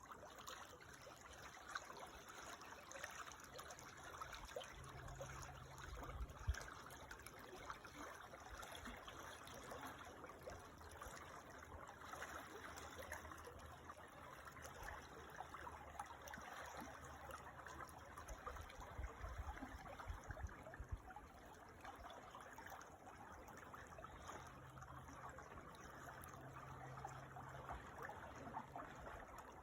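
Small creek trickling and babbling over stones, faint and steady.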